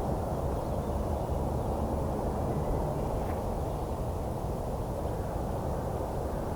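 Steady rumble of distant highway traffic, with a faint short bird call about three seconds in.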